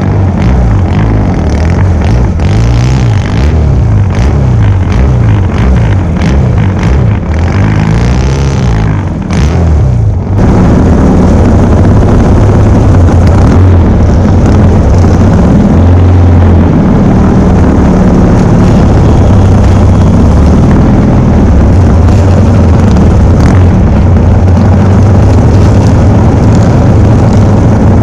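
Racing motorcycle engines, among them a 1972 Norton 750 short-stroke parallel twin, revving on the start grid with a wavering pitch. About ten seconds in, the sound jumps to a loud, steady full-throttle run as the race gets under way.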